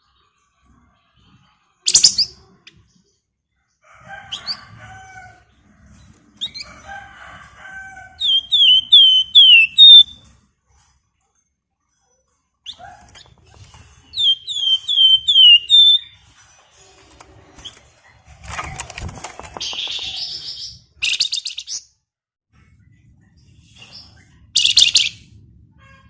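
A Javan fulvetta (flamboyan, wergan Jawa) singing in a cage. It gives two quick runs of four or five down-slurred whistled notes and several short harsh chattering bursts. A brief rustle of wings or cage comes near the middle.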